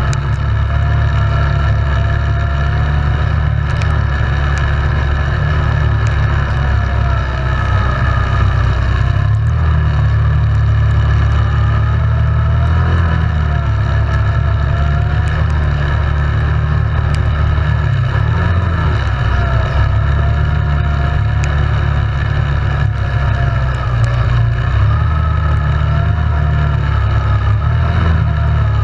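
Yamaha Grizzly 700 ATV's single-cylinder engine running while riding, its pitch rising and falling with the throttle, with a constant deep rumble underneath.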